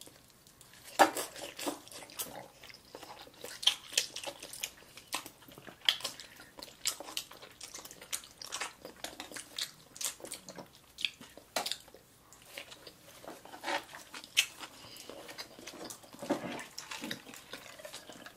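Close-up eating sounds of sushi and raw fish being chewed: wet mouth sounds with many short, sharp clicks and smacks scattered throughout.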